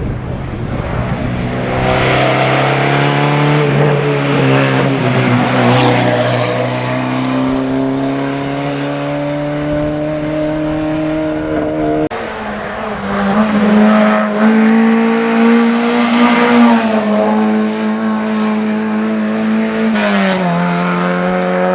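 Race car engine running hard at high revs, its pitch climbing slowly for long stretches and dropping abruptly twice, about halfway through and again near the end.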